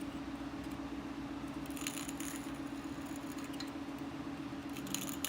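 Steel scribe scratching a line into layout fluid on a damascus steel chisel blank: short, quiet scratches starting about two seconds in and again near the end, over a steady low hum.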